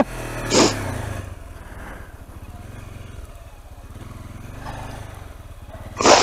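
Small motorcycle engine running at a low, steady pace. A short rush of noise comes about half a second in and a louder one near the end.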